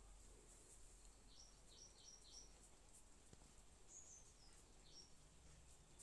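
Near silence, with faint bird chirps in the background: a quick run of four short chirps about a second and a half in, and a few more about four to five seconds in.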